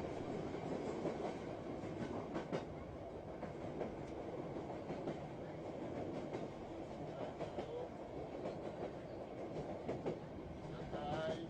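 Train running on the rails: a steady rumble with scattered clicks from the wheels and track.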